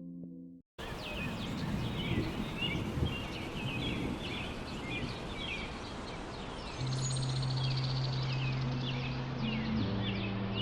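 Background music cuts off just under a second in, followed by a recorded birdsong ambience: many short bird chirps over a steady outdoor hiss. About seven seconds in, low sustained synth notes come in beneath the birds as a new music track begins.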